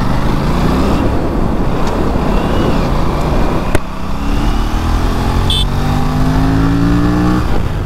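Aprilia RS 457 parallel-twin engine accelerating under a riding motorcycle, revs climbing. A sharp click comes about halfway through, then the revs climb steadily again for about three seconds before easing off near the end.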